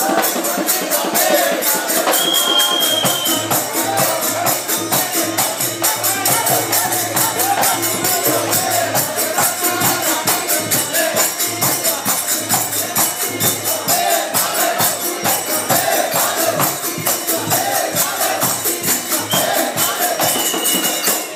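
Live tirikutu dance music: a fast, steady percussion beat with jingling metal cymbals or bells over drums and a melodic line, cutting off suddenly at the end.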